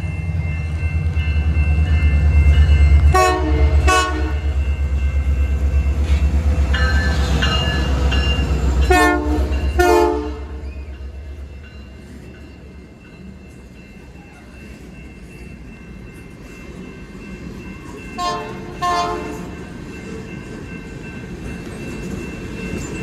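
CPKC Holiday Train's diesel locomotives and cars rumbling past, with the horn sounding short toots in pairs. The heavy rumble fades about halfway through, and two more short toots come near the end.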